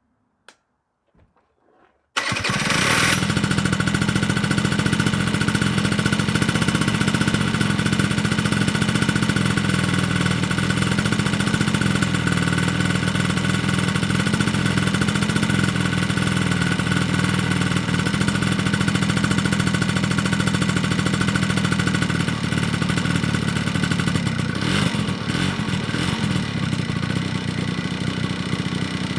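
Honda Spree scooter's 49cc two-stroke single-cylinder engine, fitted with an aftermarket S23 exhaust, starting suddenly after about two seconds of near silence and then idling steadily, with a brief flare near the end.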